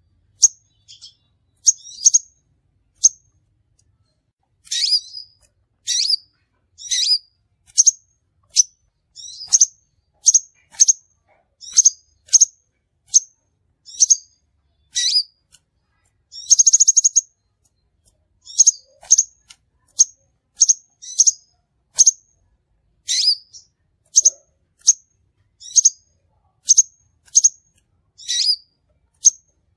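Crimson sunbird calling: a run of short, sharp, high-pitched chips, one or two a second, with a brief buzzy trill about halfway through.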